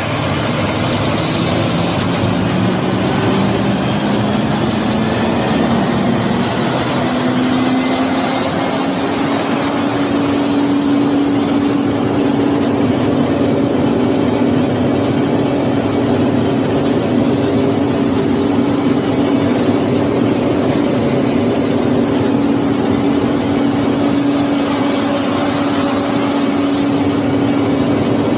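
Vactor sewer-cleaning truck running at working speed, its engine note rising over the first several seconds and then holding steady under a loud, even rushing hiss.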